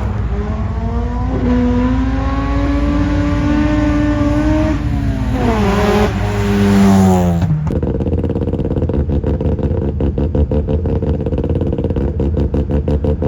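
A car's engine under hard acceleration, its note climbing slowly and then dropping away. About eight seconds in it changes abruptly to a lower, steady engine note with a rapid, even pulsing.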